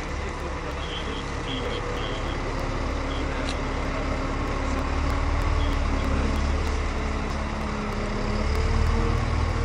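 A large vehicle's engine running steadily, with a few short high beeps in the first couple of seconds; the engine gets louder in the second half.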